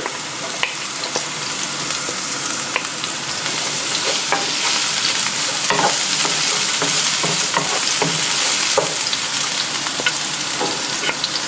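Diced onions and minced ginger sizzling in hot oil in a frying pan over high heat, with frequent short taps and scrapes of a wooden spatula against the pan as they are stirred.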